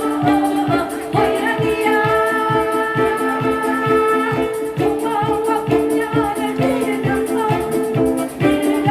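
Trot song played live by an amateur community instrumental group: sustained melody notes over a steady drum beat.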